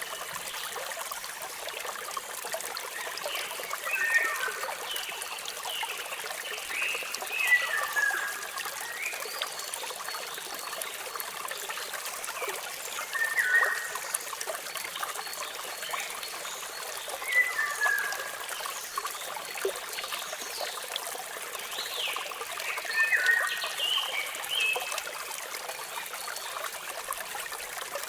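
Steady rush of falling water from a waterfall, with songbirds giving short chirps of falling pitch every few seconds, in clusters of two or three notes.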